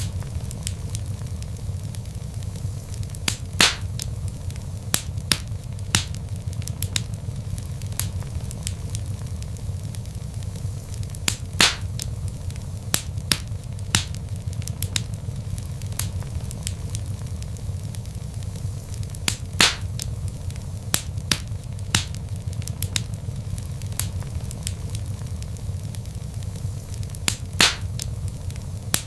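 Log fire burning in a fireplace: irregular crackles and sharp pops of burning wood, a few much louder than the rest, over a steady low rumble of the flames.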